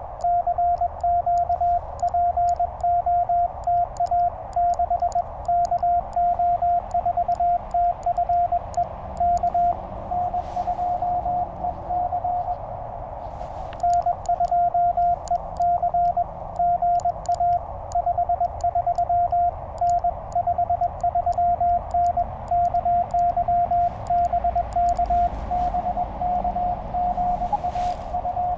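Morse code (CW) tones at a single pitch from a Penntek TR-35 QRP transceiver over a steady hiss of band noise, in two long runs of keying. About a third of the way in and again near the end, a slightly weaker Morse signal at about the same pitch comes in: stations answering and exchanging during a contact.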